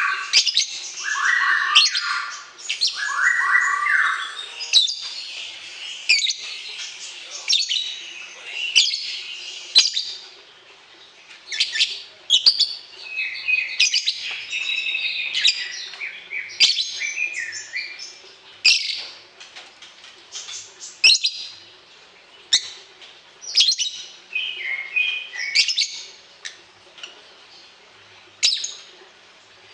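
Songbird chirping and trilling in quick high-pitched phrases, with short pauses between them and a few lower warbled notes in the first four seconds.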